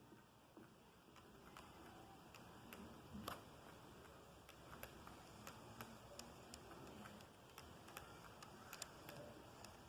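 Faint, irregular clicks from an N-gauge model train, a TOMIX Meitetsu 7000 series set, running on its track, the wheels ticking over the rail joints. The clicks come closer together near the end.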